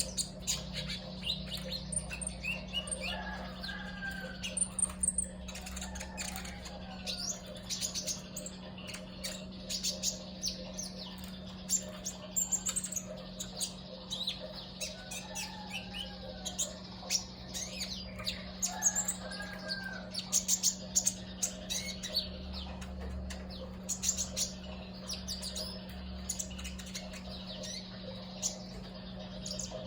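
Small male songbird (a 'riwikan' or 'konin') calling actively, with short sharp chirps and curved, warbling call notes repeated irregularly, over a steady low hum.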